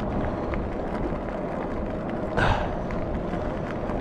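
Steady wind and road noise from riding an electric bike at cycling speed, with one short breathy burst about halfway through.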